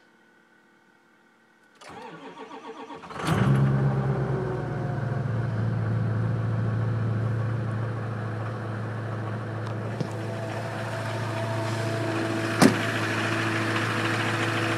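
2006 Ford Powerstroke 6.0-litre V8 turbodiesel cold-starting at 7 °F on a single glow-plug cycle, without the block heater, through a 4-inch straight pipe. It cranks for about a second and a half, catches loudly and settles into a steady idle. There is a faint click about ten seconds in and a short sharp crack near the end.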